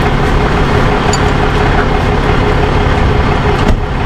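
Truck engine running steadily at a constant speed, a loud even drone with no change in pitch.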